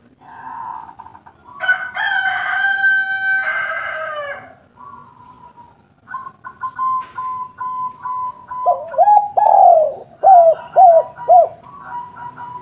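Spotted dove (tekukur) cooing in a run of short, falling notes in the second half, the loudest sounds here. Earlier, about one and a half seconds in, a rooster crows once for about three seconds.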